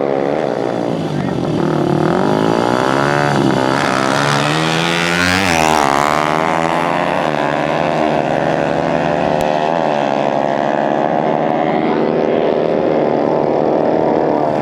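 Several dirt-bike engines running and revving, their pitches rising and falling over one another. About five seconds in, one bike passes at speed, its pitch sweeping up and then dropping.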